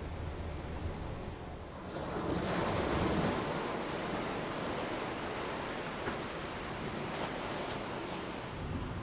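Sea waves and rushing water: a surge of water swells about two seconds in and then washes on steadily, with a brief splash near seven seconds, over a low rumble of wind.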